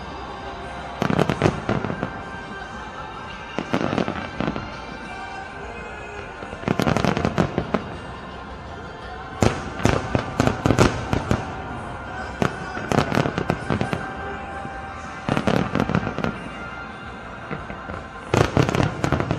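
Fireworks going off in clusters of sharp bangs and crackles, about every two to three seconds, over faint background music.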